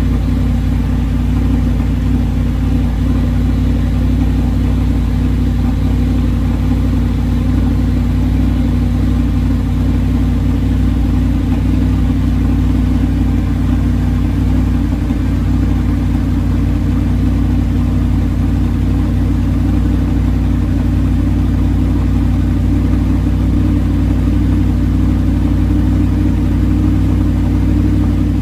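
A 2009 Audi R8's 4.2-litre V8 idling steadily shortly after a cold start, with an even, unchanging note.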